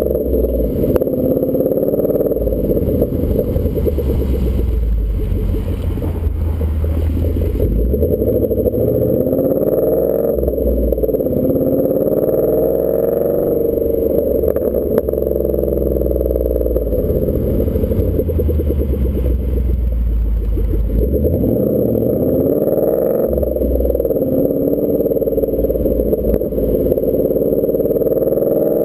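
2014 Ford Mustang GT's 5.0 V8 running through a Roush axle-back exhaust while driving, its pitch rising and falling several times as the car accelerates and eases off.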